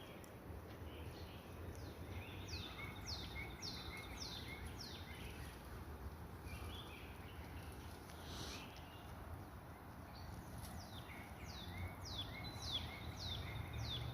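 A songbird singing a run of five or six quick downslurred chirps, about two a second, then repeating the run several seconds later, over a faint steady outdoor rumble.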